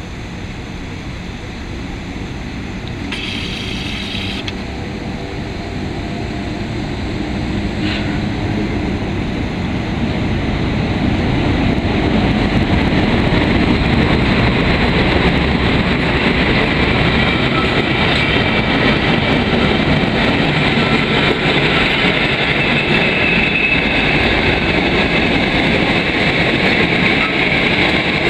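An EU07 electric locomotive and its passenger coaches running past on the rails, the rumble growing louder for about twelve seconds as the train comes alongside, then holding steady as the coaches roll by. A faint high squeal rides over the second half.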